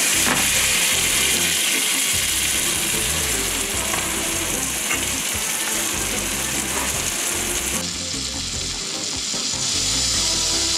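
Fish fillets frying in hot butter in a cast iron skillet, a steady sizzle throughout.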